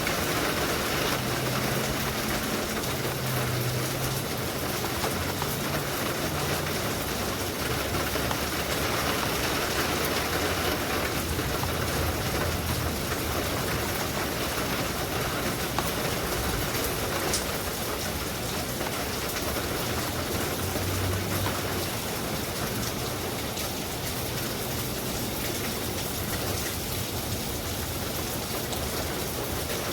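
Steady rain, an even dense hiss with a faint low rumble underneath.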